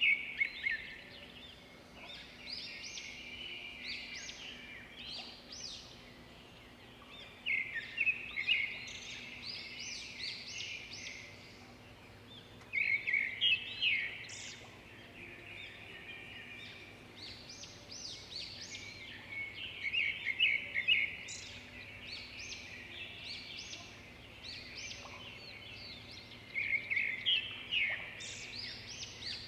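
Songbird singing: a loud, fast trilled phrase repeated about every six or seven seconds, with quieter twittering in between, over a faint steady hum.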